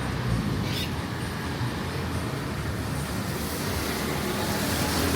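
Street traffic: vehicle engines running steadily, with a low engine hum that grows louder near the end.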